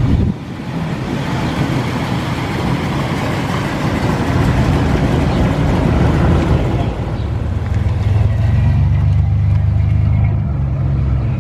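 Car engines running as cars drive by, a low exhaust rumble with passing noise, steadier and stronger for the last few seconds.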